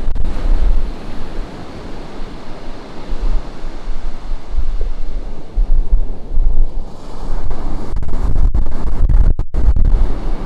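Ocean surf breaking and washing on a beach, a steady rushing hiss with wind buffeting the microphone in low, gusty rumbles. The sound cuts out for a split second about nine seconds in.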